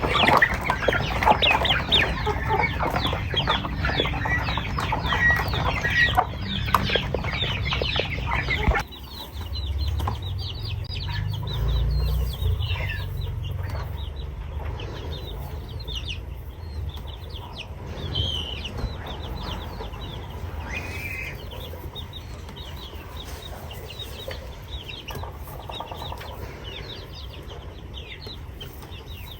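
A flock of chickens clucking, many calls overlapping. About nine seconds in the sound drops suddenly to a quieter stretch with fewer, scattered clucks.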